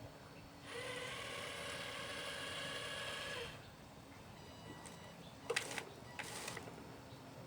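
Small electric motor of a radio-controlled model running with a steady whine for about three seconds, then cutting off, followed by a couple of sharp knocks.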